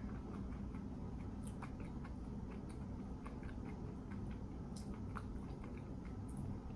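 A person chewing a mouthful of fried food, with soft, irregular wet mouth clicks over a steady low hum.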